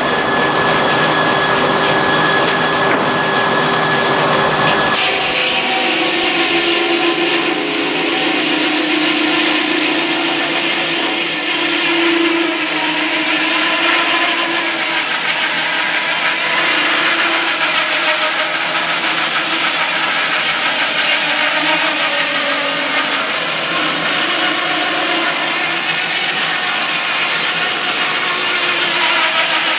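Sawmill saw running, then biting into a log about five seconds in and sawing steadily through the wood with a loud, high hiss.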